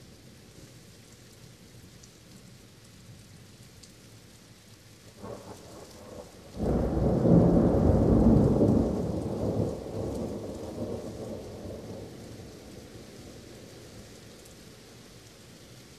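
Steady rain with a thunderclap. A short, faint rumble comes about five seconds in, then the thunder breaks suddenly and loudly, rolls for a few seconds and slowly dies away into the rain.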